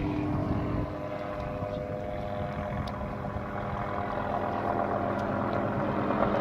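Helicopter running overhead: a steady turbine whine with the fast beat of the rotor blades, growing gradually louder in the second half.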